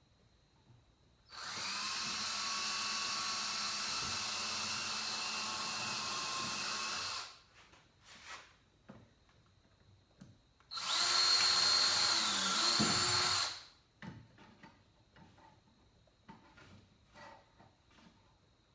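Cordless drill driving screws with a Phillips bit, in two runs. The first is a steady run of about six seconds; the second is shorter and louder, and its pitch dips briefly near the end as the drill slows.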